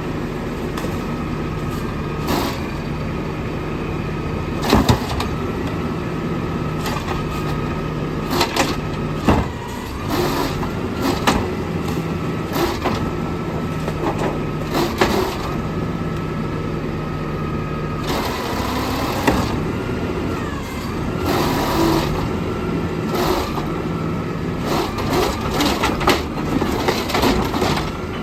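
Garbage truck engine running while an overfilled recycling bin is lifted and emptied, with repeated bangs and clattering of the bin and spilling recyclables.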